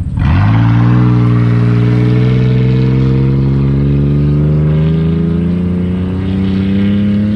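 Jeep engine launching hard off the line at the start of an eighth-mile drag race, then held at full throttle with its pitch climbing slowly and steadily.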